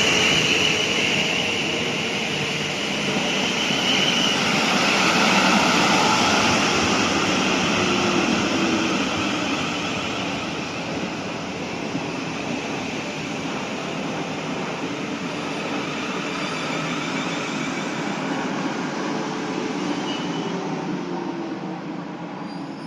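South Western Railway Class 450 Desiro electric multiple unit, two units coupled, pulling into the platform. Steady running noise swells for the first few seconds, then fades gradually as the train slows, with a faint falling motor whine.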